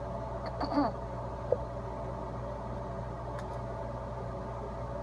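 Steady low mechanical hum, with a brief high squeak just under a second in and a short click about half a second later.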